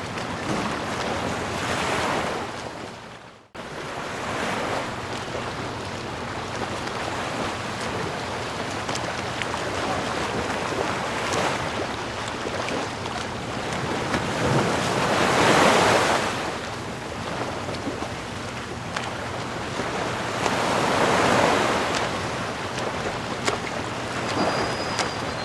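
Ocean waves washing onto the shore, the surf swelling and ebbing slowly with the biggest swell about midway and another near the end. About three seconds in the sound briefly fades out almost completely and then comes straight back.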